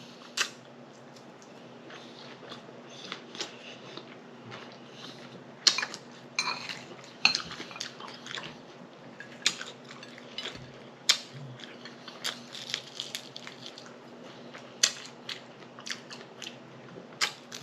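Close-miked eating: a person chewing fruit salad with wet mouth smacks and clicks at irregular moments, and now and then a light clink of utensil on dish. A faint steady hum lies underneath.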